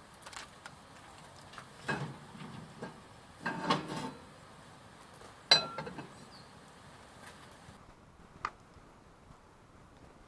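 Clinks and clatters of cookware and utensils being handled, in a few separate bursts. The sharpest, about five and a half seconds in, rings briefly like metal.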